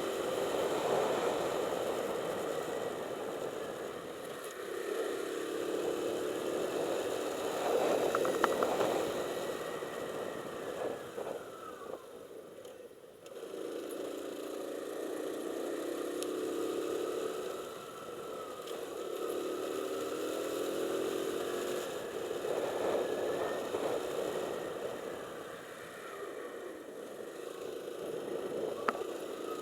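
Motorcycle engine running, rising and falling in pitch several times as the throttle is opened and closed, with road and wind noise; it eases off briefly about halfway through.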